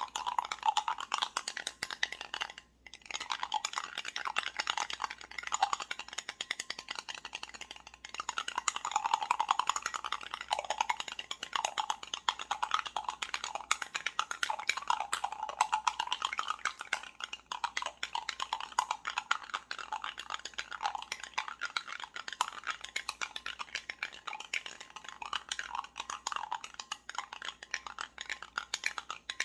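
Iced coffee being stirred: ice cubes clinking and rattling rapidly against the glass, with a brief pause about three seconds in.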